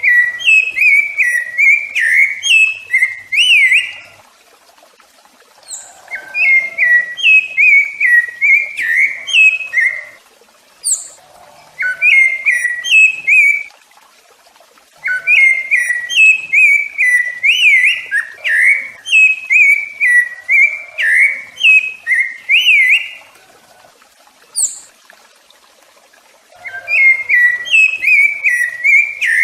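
Rufous-bellied thrush (sabiá-laranjeira) singing: loud phrases of fluting, warbled whistles, each lasting a few seconds with short pauses between, over thin high-pitched chirps.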